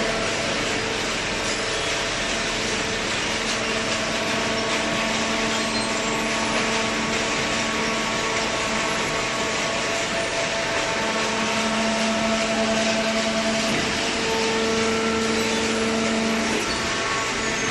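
Double-cylinder vertical carton baler's hydraulic power unit running: a steady mechanical hum and whine over a hiss, which grows stronger for a few seconds in the second half.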